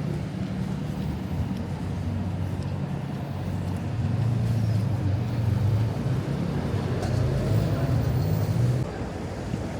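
A motor vehicle's engine running close by in street traffic, a steady low drone. It grows louder about four seconds in and drops away shortly before the end.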